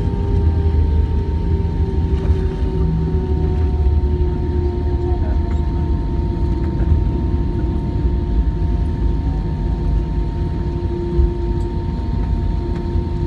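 Airbus A320 cabin noise while rolling on the ground after landing: a steady low rumble from the wheels and airframe under the steady hum of the idling jet engines.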